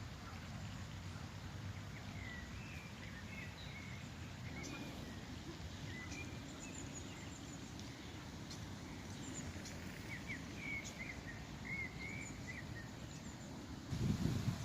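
Outdoor ambience: a steady low rumble with small birds chirping faintly in short, quick calls through most of it. A louder low bumping comes right at the end.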